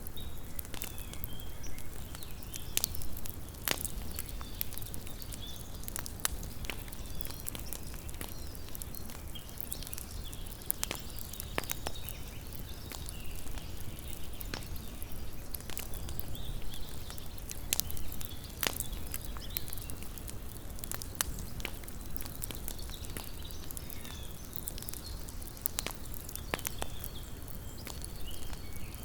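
Small campfire crackling: irregular sharp pops and snaps, some close together and some a second or two apart, over a low steady rumble.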